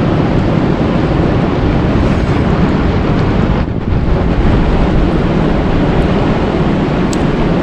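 Steady, loud rushing noise of a natural soundscape, with a brief dip about three and a half seconds in.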